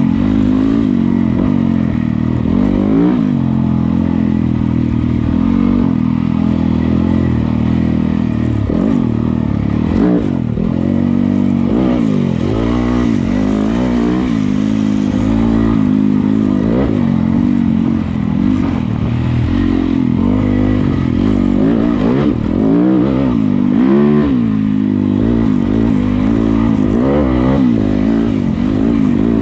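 Yamaha YZ250FX's single-cylinder four-stroke engine under way on a dirt trail, the revs rising and falling over and over with the throttle.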